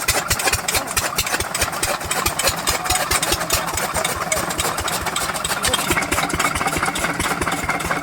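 Diesel engine of a chaff cutter machine running steadily, with an even beat of about seven pulses a second.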